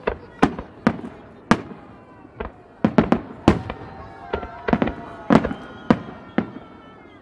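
Fireworks display: aerial shells bursting overhead in an irregular string of sharp bangs, about two a second.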